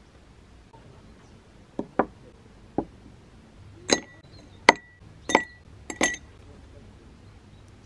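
Three light knocks, then four sharp clinks of hard objects, each with a short ringing tone, roughly one every three quarters of a second.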